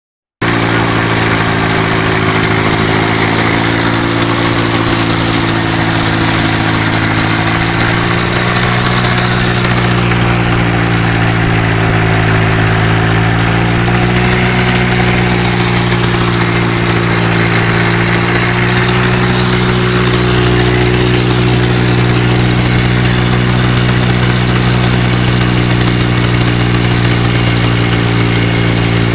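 Tractor engine running steadily at a low, even speed, its pitch wavering slightly up and down.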